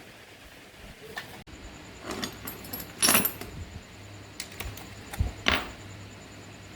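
Short metallic clinks and rattles, in a few brief bursts with the loudest about three seconds in and another pair near the end, over a low steady hum.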